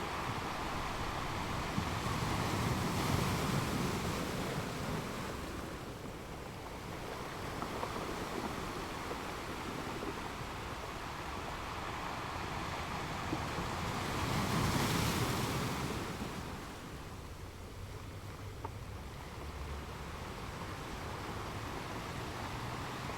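Ocean waves breaking and washing on a shore, a steady rushing surf with two larger waves swelling up and falling away, about 3 and 15 seconds in.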